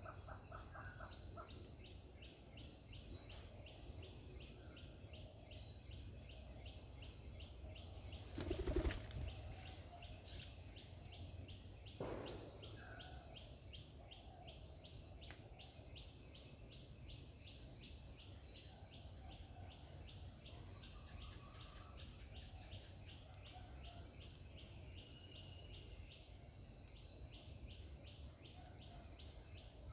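Birds chirping now and then in short rising calls over a steady high insect drone and trill. A brief loud rustle comes about nine seconds in, and a fainter one a few seconds later.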